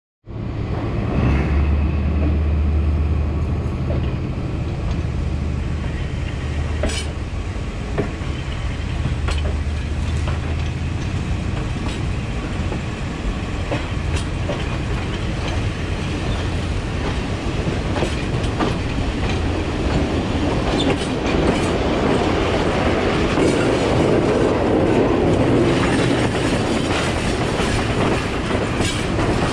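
Sri Lanka Railways train hauled by a Class W3 locomotive, running and heard from on board: a low steady drone, with wheels clicking over rail joints at irregular intervals. The rumble of the wheels grows louder in the second half.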